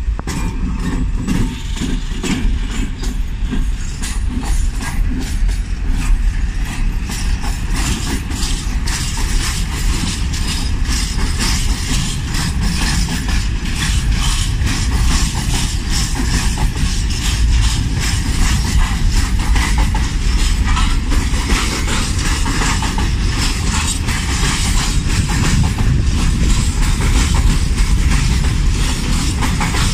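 Train passing on a station track, its wheels clattering over rail joints in a dense, continuous run of clicks over a low rumble. The clatter grows busier after the first few seconds.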